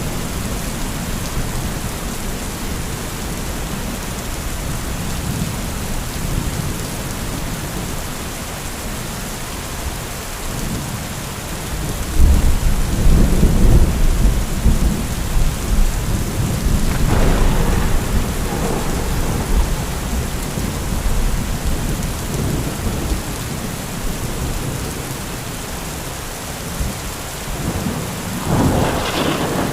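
Heavy rain falling steadily. A long, loud, low rumble of thunder starts about twelve seconds in and rolls on for several seconds, and a sharper crack of thunder comes near the end.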